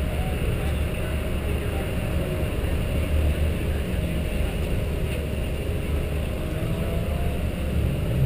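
Mazda MX-5 Cup race car's four-cylinder engine idling steadily while the car stands still.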